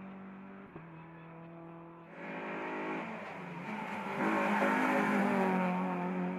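Hillclimb race car engine running hard as the car approaches and passes. Its engine note shifts in pitch about three seconds in, and it is loudest around four to six seconds in.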